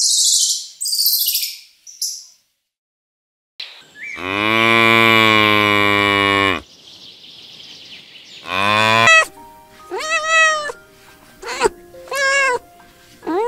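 High, quick chirps in the first two seconds, then, after a short gap, a cow's single long moo held steady for about two and a half seconds, followed by a kitten meowing five or six times, each meow rising and falling in pitch.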